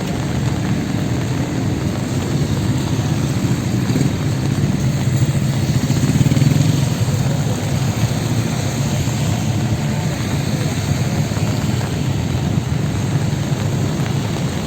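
Street traffic: vehicle engines running and passing, swelling loudest about six seconds in.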